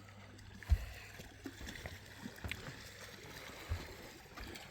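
Water lapping and gurgling gently against a boat's hull, with two soft low thumps, one about a second in and one near the end.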